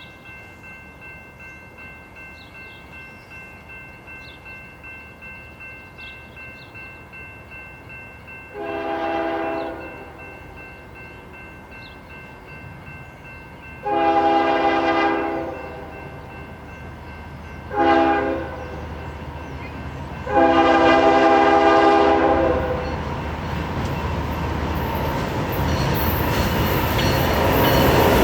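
Diesel locomotive air horn of an approaching CN freight train sounding the grade-crossing signal: two long blasts, a short one and a final long one. Before it a steady, pulsing electronic ringing. After the last blast the locomotives' engine rumble and wheel noise build up as the train arrives, growing loudest near the end.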